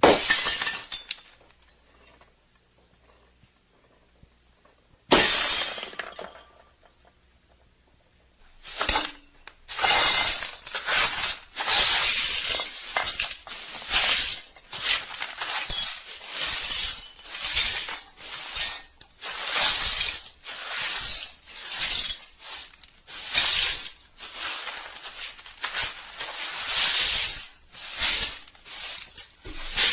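Plates and glass shattering: one smash at the start and another about five seconds in, each dying away over a second or two, then from about nine seconds in an unbroken run of crashes and crunching, one after another.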